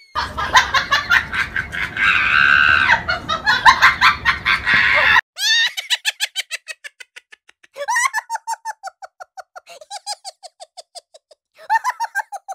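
About five seconds of loud, dense sound with a rhythmic pulse, cut off abruptly. Then a man laughs in trains of short, quick, repeated bursts, in several spells with pauses between them.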